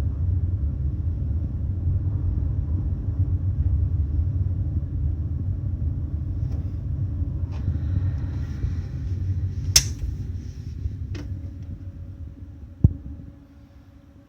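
Low, steady rumble of a large ferry's engines and propulsion machinery, heard inside a passenger cabin as the ship manoeuvres alongside the quay. It dies away over the last couple of seconds. A few sharp clicks and a single low knock sound over it, the loudest click about ten seconds in.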